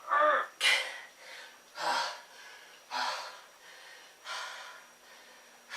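A man breathing hard from push-up exertion: heavy, noisy gasping breaths roughly once a second, the first one voiced.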